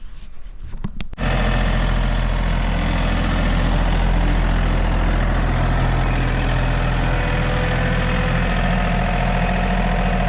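Gasoline pressure washer's small single-cylinder engine running steadily at its governed speed. It starts abruptly about a second in, after a few short knocks.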